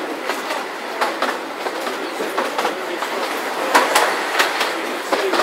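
Narrow-gauge passenger train running along the track, its carriage wheels clicking irregularly over the rail joints against a steady running noise.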